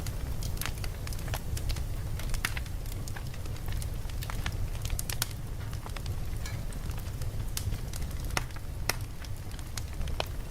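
Campfire crackling: irregular sharp pops and snaps from burning wood over a steady low rumble of the fire.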